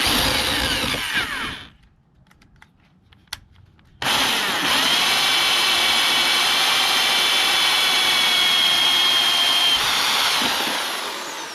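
Power drill cutting through the truck bed's side panels. It runs in a short burst, stops for about two seconds, then runs steadily with a high whine for about seven seconds before winding down near the end.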